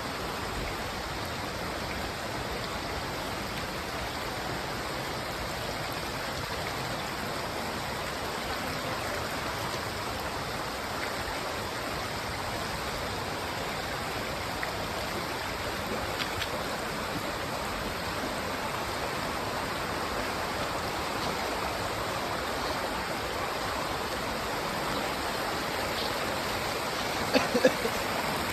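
Steady rush of running water from a mountain stream and waterfall, with a few short sharp knocks near the end.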